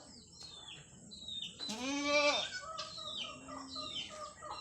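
Farmyard birds calling: many short, quick chirps, hen-like clucks, and one louder falling call about two seconds in.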